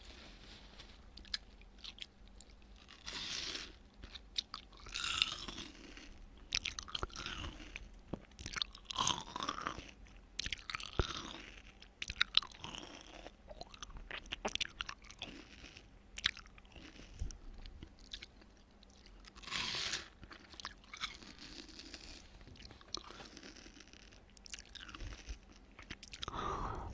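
Close-miked ASMR eating sounds: crunchy bites and chewing of watermelon, irregular, with louder bites every few seconds.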